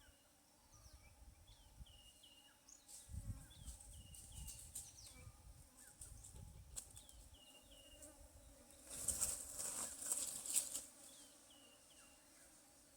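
Outdoor wildlife ambience: a short chirping call repeats every second or two, and about nine seconds in there is a loud rustling burst that lasts about two seconds.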